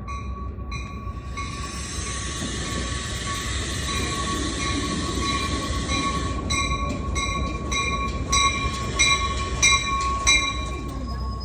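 Metra commuter train pulling into the station, with the low rumble of the cars and a steady high squeal from the wheels. A ringing note repeats about every two-thirds of a second, and from about halfway sharp clanks come at a similar pace and are the loudest sounds.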